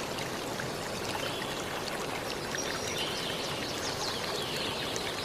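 Water rushing steadily in a stream, with short high calls repeating about once a second over it.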